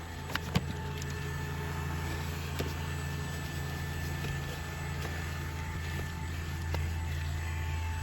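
Handheld cordless vacuum cleaner running steadily with a low hum, with a few sharp clicks early on and again near the end.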